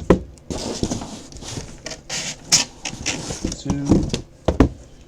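Cardboard trading-card hobby boxes being pulled from a case and set down: scraping and rustling with sharp knocks, several times.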